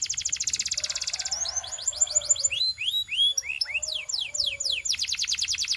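Belgian canary singing: a fast trill of about fifteen quick falling notes a second, breaking about a second and a half in into slower swooping and arched whistles, then back into the fast trill about five seconds in.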